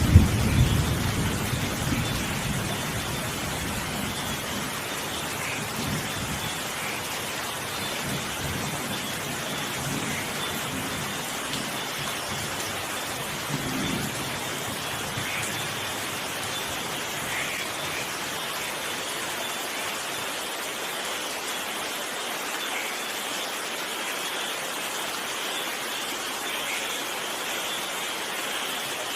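Steady rain falling, with a roll of thunder that is loud at the start and dies away over the first few seconds. A fainter rumble swells briefly about halfway through.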